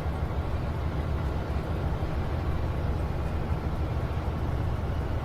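A heavy vehicle's engine running steadily, a low, even sound with no breaks.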